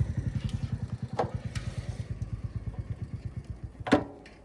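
Motorcycle engine ticking over in an even, rapid beat that grows steadily fainter and dies out near the end. There is a click about a second in and a sharp knock just before the beat stops.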